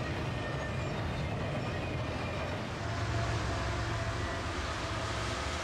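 A long freight train rolling past: steady wheel-on-rail noise from the cars going by, with faint thin ringing tones running through it.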